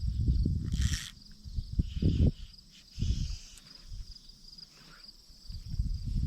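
Insects, crickets or similar, chirping steadily with a fast pulsing trill in the background. Low rumbling bumps are loudest in the first second and again near the end, with a brief rustle about a second in.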